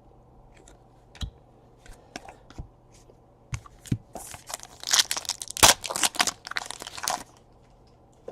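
A 2017 Panini Chronicles Baseball trading card pack wrapper torn open and crinkled, a dense crackling rustle from about four seconds in to just past seven. Before it come a few scattered light clicks as the cards are handled.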